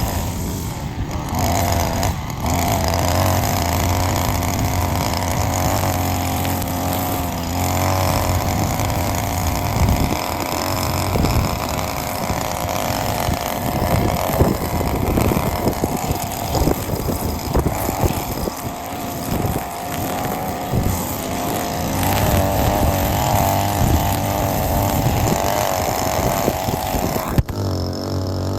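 Lawn mower engine running steadily while cutting grass, with a brief sharp break near the end.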